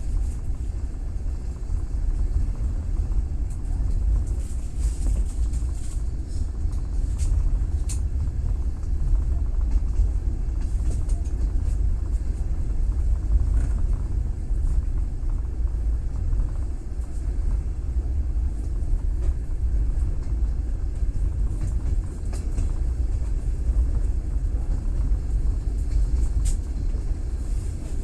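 Train running on the rails, heard from inside the carriage: a steady low rumble with a few faint clicks.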